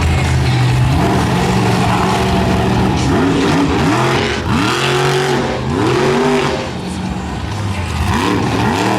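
Monster truck engine idling with a steady rumble, then revved hard in a quick string of blips from about three seconds in, each one rising and falling in pitch.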